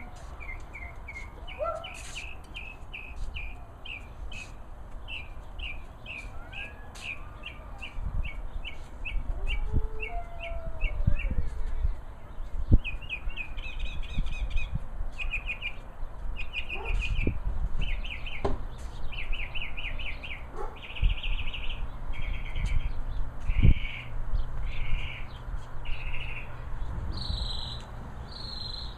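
A songbird singing: rapid series of short, high chirps, turning about halfway through into buzzier trilled phrases that climb higher near the end. A low rumble with a few dull thumps runs underneath.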